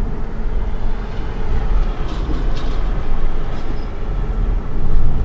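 Steady low road and tyre rumble inside the cabin of a Chevy Bolt electric car driving along while it tows a loaded trailer. There is no engine note, and a few faint knocks come about two seconds in.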